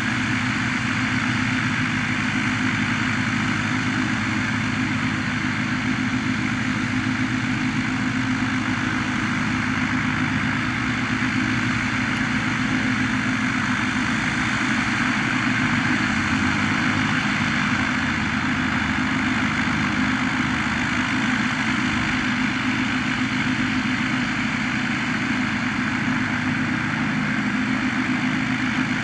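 Blackshape Prime light aircraft's propeller engine running steadily at low power, an even drone with no revving.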